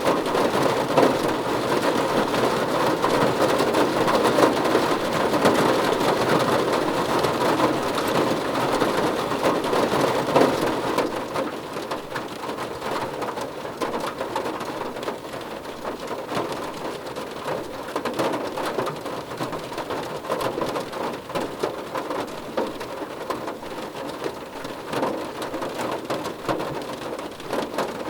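Rain drumming on a car roof, a dense patter of many drops, heavier for the first ten seconds or so and then easing slightly.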